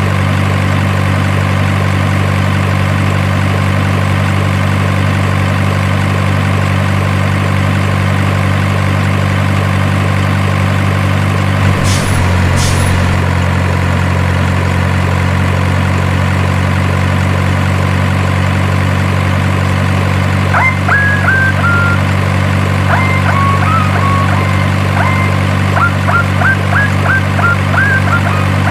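Steady, unchanging diesel truck engine idle, the kind played by an RC truck's sound module, with two sharp clicks about twelve seconds in. Short high chirps come in during the last third and repeat quickly near the end.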